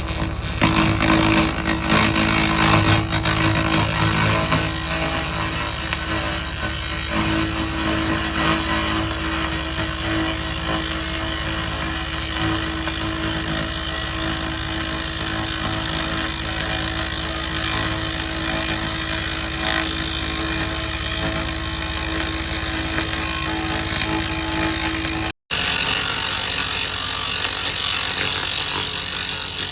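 Laser rust remover working over rusty metal: a steady, buzzy crackling hiss with an underlying hum. It drops out abruptly about 25 seconds in and comes back brighter and hissier.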